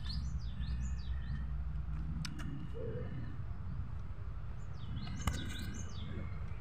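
A bird singing: a run of quick whistled notes sweeping up and down, at the start and again about five seconds in, over a low steady hum, with a couple of faint clicks.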